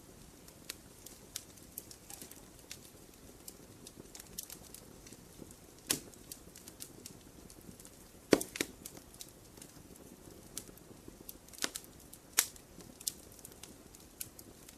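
Wood campfire crackling: scattered sharp snaps and pops from the burning wood over a faint low hiss of the flames, with a few louder pops, the loudest a little past halfway.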